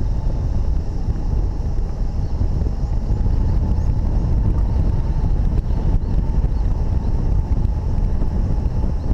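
Wind rushing over the microphone of a flying hang glider: a loud, steady, rumbling rush, heaviest in the low end, with a faint steady high tone running under it.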